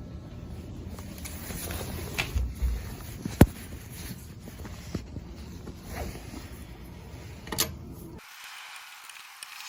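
Lug nuts on an AMC Gremlin's wheels being tightened with a wrench: scattered metal clicks, creaks and knocks, with one sharp clank about three and a half seconds in. Near the end the sound changes abruptly to a steady hiss.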